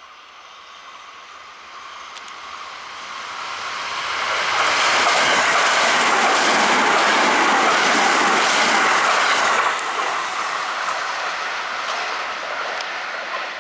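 Kintetsu limited express electric train approaching and passing close by at speed. Its rolling noise grows louder over several seconds, is loudest for about five seconds as the cars go past, then drops sharply as the last car clears, leaving a fading tail.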